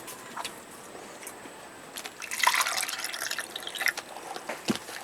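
Drinking water being poured, starting about two seconds in and lasting under two seconds.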